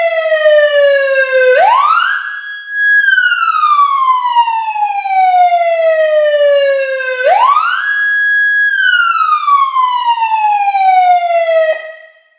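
Whelen 295SLSA1 electronic police siren sounding its wail through two 100-watt speakers in a large aircraft hangar: a loud tone that falls slowly, sweeps up quickly, holds its top pitch for about a second and falls again, twice over. It stops near the end with a short echoing fade.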